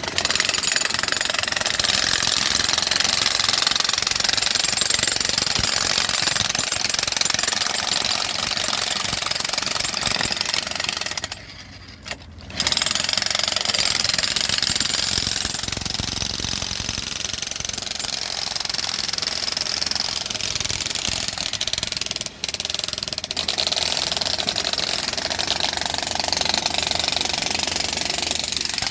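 A loud construction power tool runs continuously, stops for about a second near the middle, and drops out again very briefly later.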